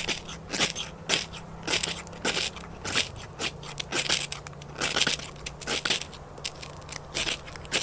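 Repeated short, sharp scrapes and crunches, about two a second and uneven, from working dry tinder by hand and striking at it to light a campfire whose tinder has not yet caught.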